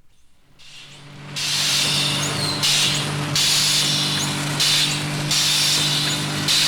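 A machine starting up after a moment of silence. It runs with a steady hum and loud bursts of hissing that repeat about once a second.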